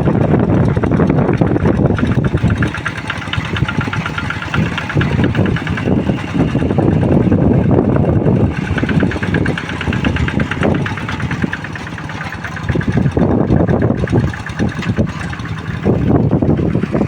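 Two-wheel hand tractor's engine running hard, pulling a moldboard plough through soft, deep paddy mud. The engine note swells and dips every few seconds.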